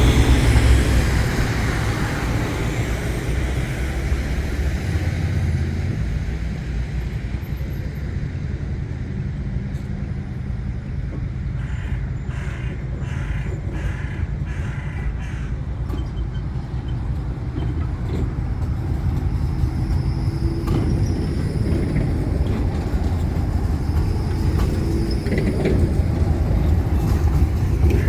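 City street traffic: a steady low rumble, loudest at the start and again near the end.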